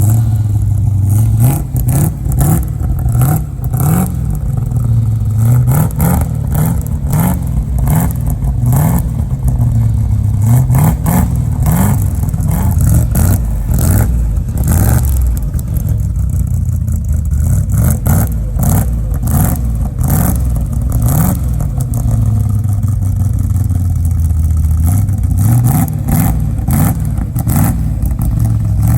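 1964 Chevrolet Impala's engine heard through a custom Magnaflow exhaust, revved in a series of quick blips that rise and fall, then settling mostly to a steady idle with a few more revs near the end.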